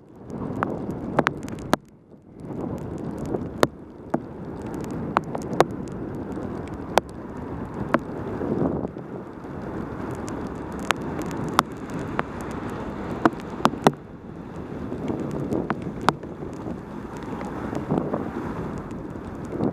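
Wind rushing over a helmet-mounted action camera's microphone on a fast mountain-bike descent in heavy rain, with tyre hiss on the wet road. Sharp, irregular clicks and knocks come through it every second or so.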